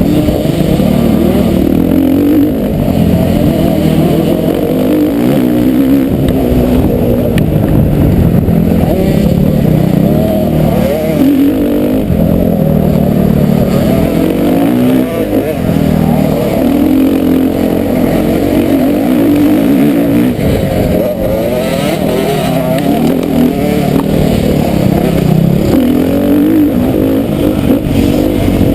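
Motocross bike engine revving hard and continuously, its pitch rising and falling over and over as the throttle opens and closes.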